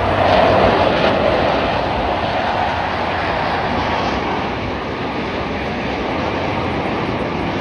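Jet aircraft flying past with a loud, steady roar that peaks about a second in and then slowly fades.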